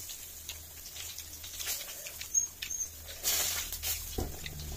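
People chewing grilled pork sekuwa: irregular short smacks and clicks from the mouth, with a brief hiss about three seconds in.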